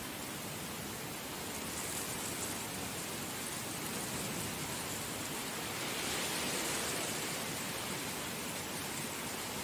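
Heavy rain falling in a steady, even hiss, swelling slightly a little past halfway through.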